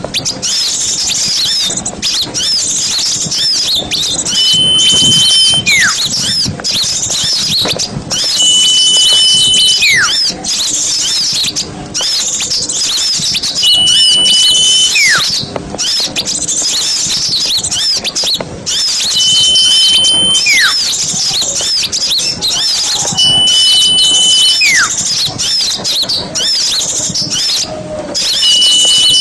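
Lure recording of a noisy flock of small birds chirping and twittering densely and without pause. About every four seconds a high whistle is held for about a second, then followed by a quick falling note; the pattern repeats evenly, as in a looped track.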